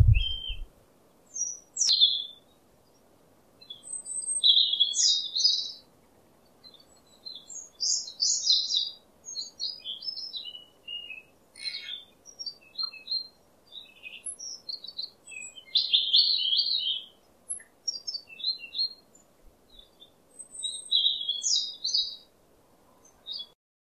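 Small birds chirping and trilling in short, bright phrases with brief gaps, over a faint steady hiss. A few low thumps come at the very start.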